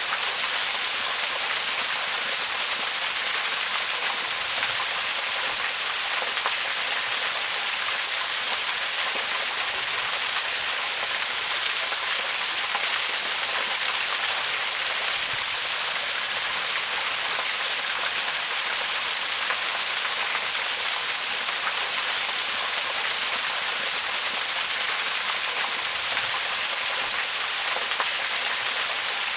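Waterfall: a steady, unbroken rush of falling water, a bright hiss with little low rumble.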